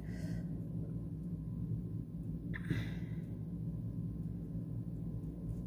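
Steady low background hum, with a soft breath at the start and another about two and a half seconds in.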